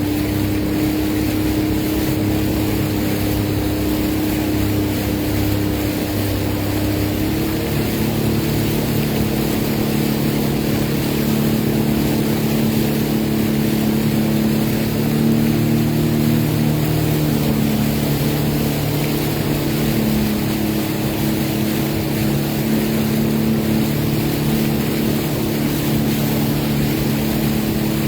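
Sea-Doo Fish Pro personal watercraft's engine running under way, with a steady rush of noise from water and air. The engine note shifts slightly higher about seven seconds in, then holds.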